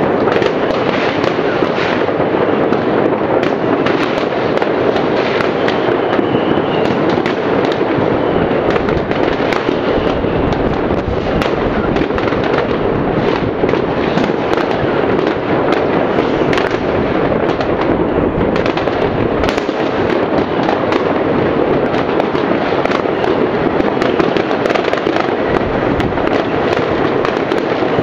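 Many New Year fireworks and firecrackers going off at once across a wide area. It is a dense, unbroken crackle of overlapping bangs and pops with no pause.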